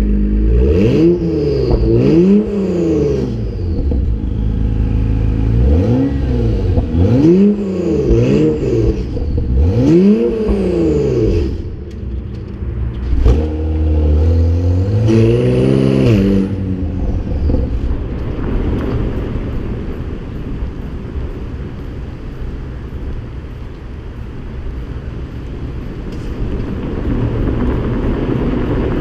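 2017+ Acura NSX twin-turbo V6 with a PRIDE valved aftermarket exhaust, revved in several short blips that rise and fall in pitch over the first half, then settling to a steady idle.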